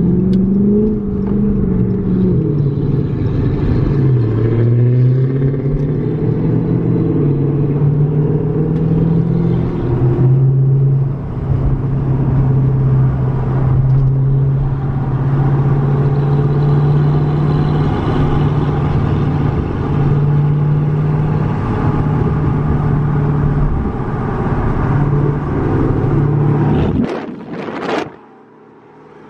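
Dodge Hemi V8 engine running, its exhaust drone falling and rising in pitch for the first few seconds and then holding steady. It cuts off suddenly near the end.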